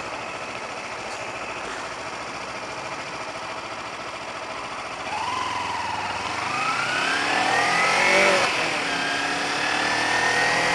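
Motorcycle engine accelerating hard: steady engine and wind noise for about five seconds, then the engine note climbs, drops at a gear change after about eight seconds, and climbs again.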